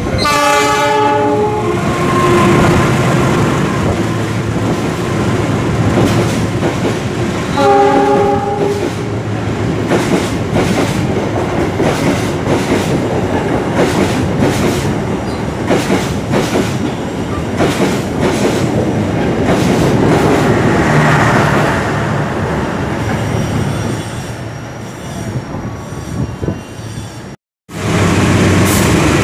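Commuter train sounding its horn twice, a blast of about a second at the start and another about eight seconds in, then running past close by with its wheels clattering rhythmically over the rail joints. The sound cuts off suddenly near the end.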